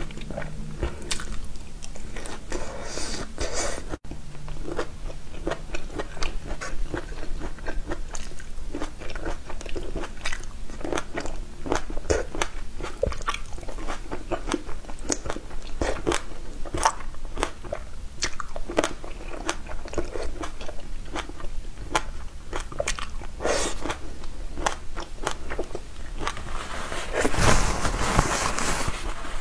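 Chewing and crunching of broccoli and cherry tomatoes: a long run of short, crisp bites and mouth clicks. Near the end comes a longer, louder noisy burst.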